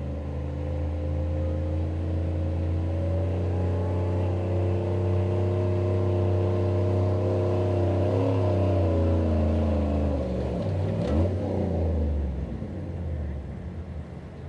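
Pulling truck's engine at full throttle under heavy load, dragging a weight sled down the track. The engine note climbs slowly, wavers and dips about eight seconds in, then falls away near the end as the pull finishes.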